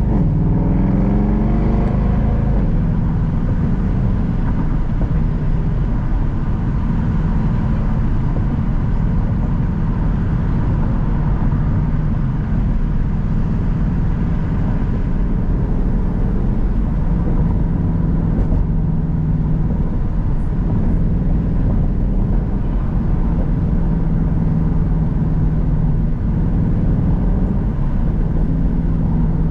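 Mercedes-Benz C63 AMG (W204) 6.2-litre V8 running at steady, low revs while the car cruises, heard from inside the cabin with road noise underneath. The engine's pitch rises briefly right at the start, then holds a steady drone.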